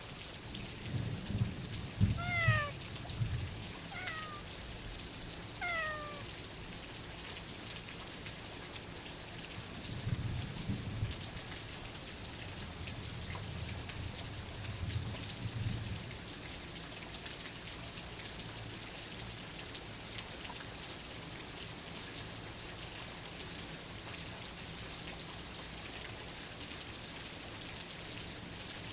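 Steady rain with low rolls of thunder near the start and again around ten and fifteen seconds in. A cat meows three times in the first few seconds, each meow short and falling in pitch.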